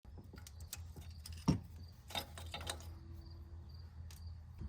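Scattered light metallic clicks and taps from hand tools and parts being handled, with a louder knock about one and a half seconds in, over a low steady hum.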